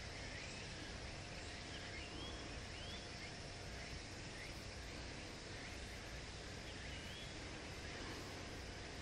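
Quiet outdoor ambience with a bird calling in short, rising chirps, about one a second at first and again near the end.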